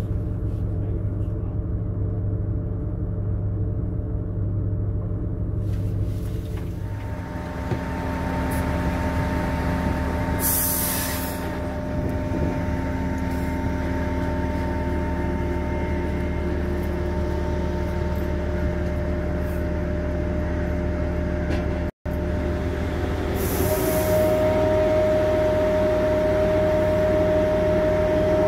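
Passenger train running: a steady rumble with several humming tones that shift as it goes, and two short hisses of air.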